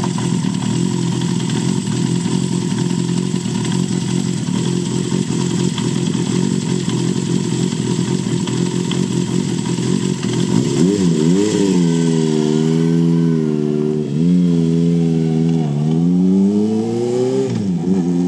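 Honda CB400Four's air-cooled inline-four through a Yoshimura short exhaust, ridden. It holds a steady note under a hiss, then from about ten seconds in the revs climb and drop several times as it pulls through the gears.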